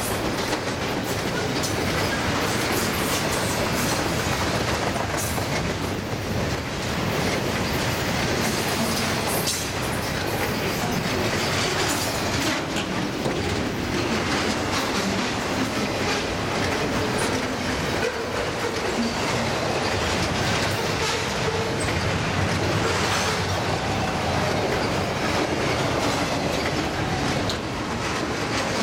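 Double-stack container well cars of a long freight train rolling past: a steady rumble of steel wheels on the rails, with clicks and clatter running through it.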